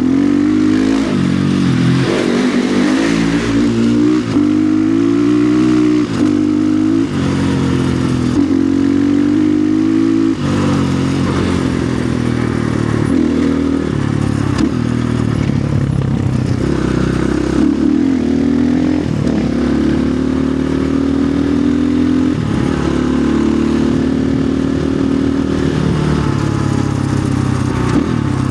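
250 cc single-cylinder engine of a 2025 Orion RXB250XL dirt bike being ridden, its pitch repeatedly climbing under throttle and dropping back every second or two. The rider says the bike has not been running right.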